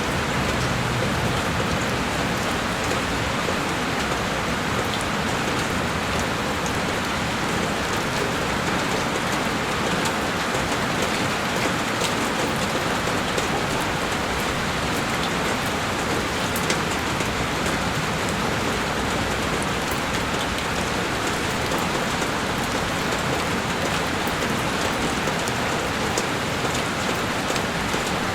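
Heavy rain falling steadily on a window pane, a dense even patter with many small drop hits.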